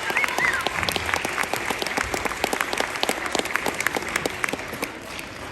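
Audience applause, many hands clapping quickly and irregularly, thinning out toward the end.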